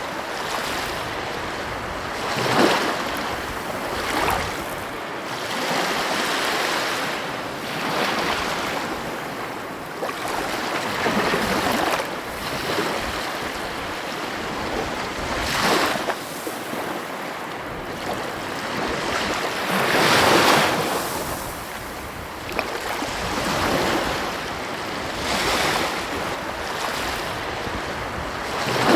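Ocean surf washing onto a beach: a continuous rush of water with waves breaking and swelling every few seconds, the biggest about two-thirds of the way through.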